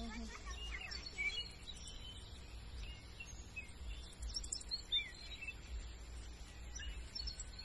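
Birds chirping here and there in the background, short scattered calls, over a low steady rumble.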